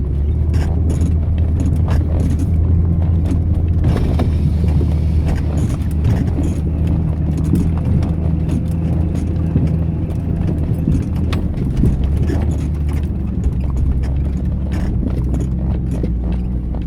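Vehicle engine running with a steady low drone, with scattered knocks and rattles throughout.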